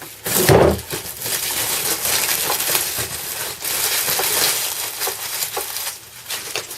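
Shrink-wrap plastic being torn and pulled off a cardboard box: continuous crackling and crinkling with a louder rip about half a second in.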